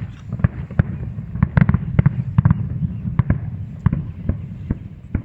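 Fireworks going off in a rapid, irregular series of sharp bangs and pops, over a steady low rumble.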